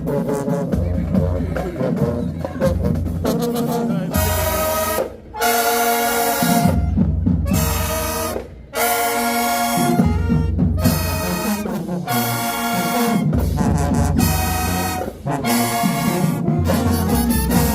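High school marching band playing loud brass chords over drums. The band is on drums alone for the first few seconds, then the horns come in with held chords broken by short, sharp stops.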